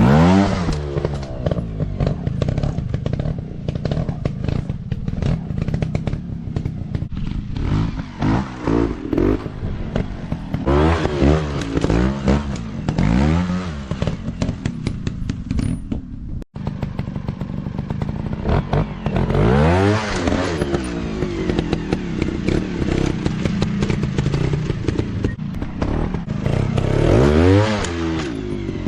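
Dirt bike engines revving up and down again and again, the pitch rising and falling every second or two, with clattering over the exhaust. The sound cuts out for an instant about sixteen seconds in.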